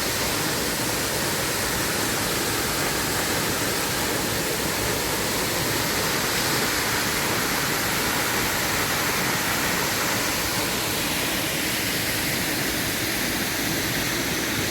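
Curtis Falls waterfall rushing: a steady, unbroken noise of falling water.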